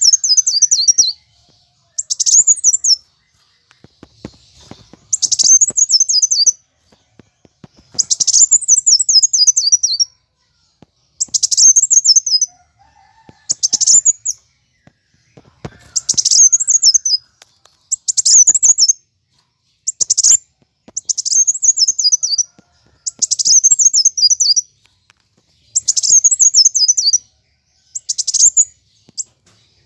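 Kolibri wulung sunbird singing in its aggressive 'fighting' mode: about a dozen loud, rapid phrases of high chittering notes, each phrase sweeping downward, repeated roughly every two seconds with short pauses between.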